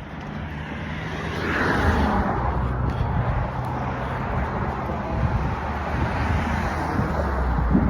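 Car driving along: steady engine hum and road noise, growing louder about a second and a half in.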